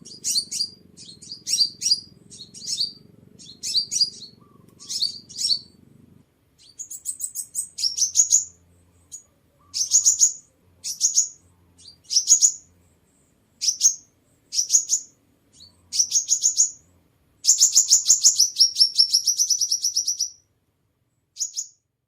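A sunbird singing: short, high, sharp chirping phrases repeated about once a second, with a long rapid trill about three quarters of the way through.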